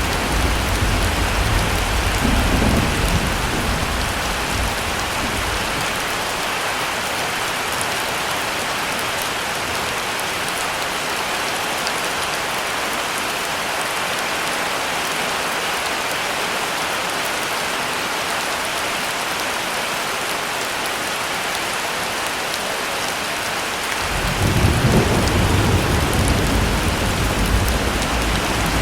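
Heavy rain falling steadily, with low thunder rumbling over the first few seconds, fading, then rolling in again near the end.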